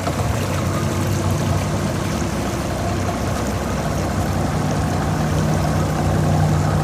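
Boat engine idling with a steady low hum, over a wash of moving water.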